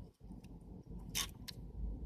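Small sharp clicks and taps of camera lens parts being handled and fitted together, the loudest a little past a second in, over a low rumble of handling noise.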